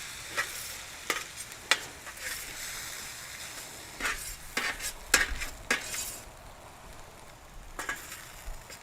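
Fried rice sizzling on a griddle pan just after soy sauce has gone in, as it is stirred: a steady hiss with irregular sharp scrapes and taps of a utensil against the pan.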